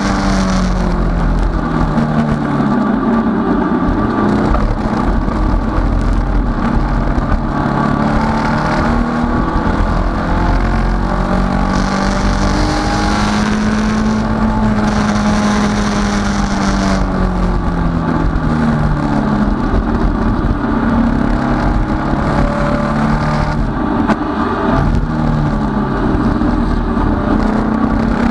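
Datsun 510 race car's engine heard from inside the cockpit at racing speed, its revs climbing and dropping several times over the lap section, with road and wind noise.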